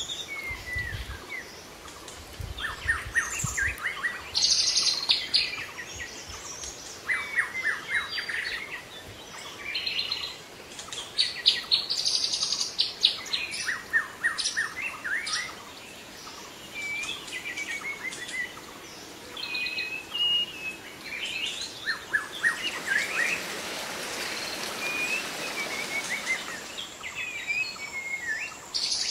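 Wild birds singing and calling in forest, a busy mix of short chirps, rapid trills and whistles from several birds. A soft hiss swells in the background for a few seconds near the end.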